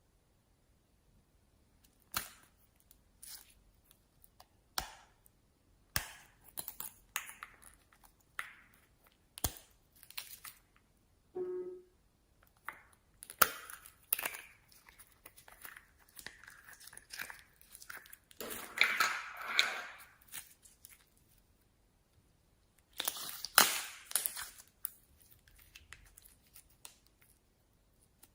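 Slime being squeezed and poked by hand, giving irregular sharp clicks and pops, with longer crackling squelches about two-thirds of the way through and again near the end.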